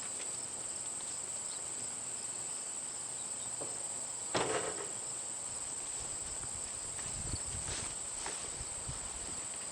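Steady high-pitched insect trill, typical of crickets. A short rush of noise comes about four and a half seconds in, and a few faint low knocks follow near the end.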